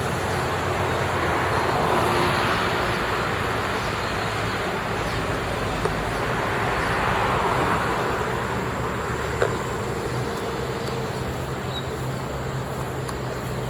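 Road traffic: a continuous noise of passing vehicles, swelling as cars go by about two seconds in and again near the middle, over a low engine hum.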